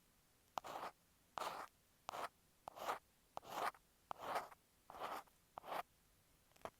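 Ear pick scraping against an earphone microphone in short strokes, about eight of them, each a fraction of a second, a little under a second apart, with a few light clicks.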